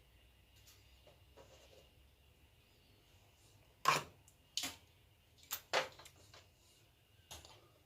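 Five sharp clicks and snaps from hand tools working short lengths of thin wire, the loudest about four seconds in, over a faint steady high whine.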